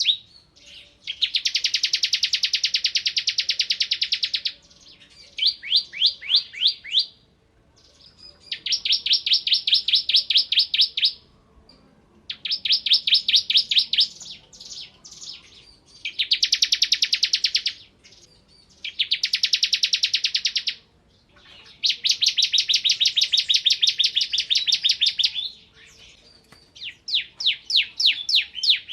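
Bar-winged prinia (ciblek) singing in full song: about nine bouts of very fast rattling trills, each two to three seconds long, with short pauses between them. Some bouts are slower runs of separate rising notes.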